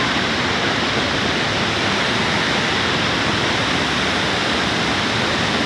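Waterfall rushing: a steady, loud, unbroken roar of falling water.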